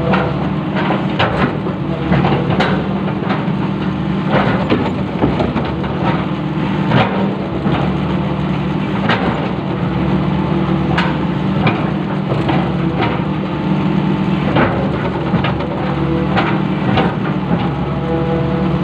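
Long-reach excavator's diesel engine running steadily, with frequent irregular knocks and clanks over it.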